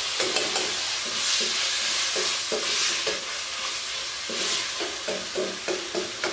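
Chicken pieces sizzling in oil in a kadhai while a wooden spatula stirs and scrapes them around the pan in a run of short strokes, which come quicker near the end.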